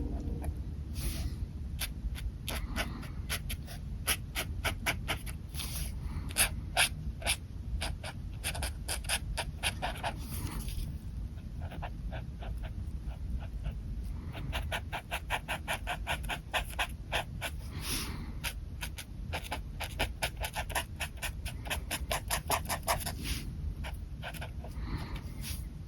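Pen nib scratching on paper in runs of quick short hatching strokes, several a second, with a few longer drawn strokes, over a steady low background rumble.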